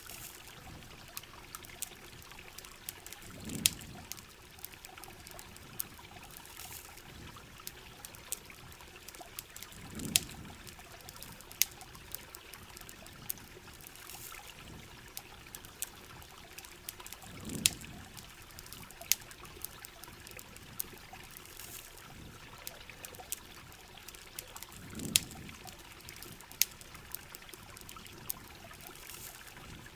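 Steady heavy rain with water trickling and pouring, scattered sharp campfire crackles, and a low muffled swell about every seven seconds.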